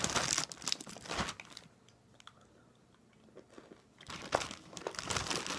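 Close-up crunching and chewing of candy-shelled chocolate Easter eggs, with a quiet pause in the middle before the crunching starts again.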